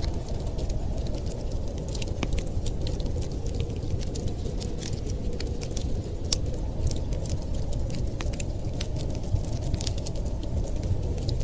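Wood fire crackling, with many small irregular pops and snaps, several a second, over a steady low rumbling noise.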